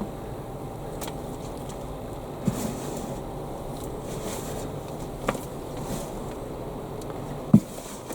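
Potatoes being dug and lifted by hand: three short dull thumps, the last and loudest near the end, over a steady low background hum.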